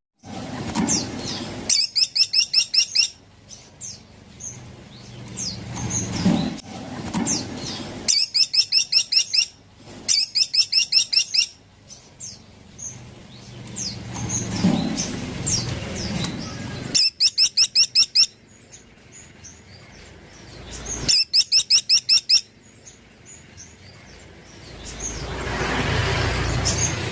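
Caladi (small woodpecker) calling: five bursts of rapid, evenly spaced high notes, each about a second and a half long, with thin chirps between them. A rushing noise builds near the end.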